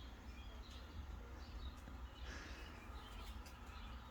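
Faint, scattered chirps from caged pet birds over a low steady hum.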